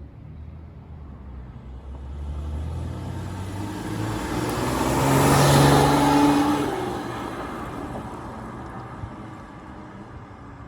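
A car passing by: engine and tyre noise swell to a peak about halfway through, drop in pitch as it goes past, then fade.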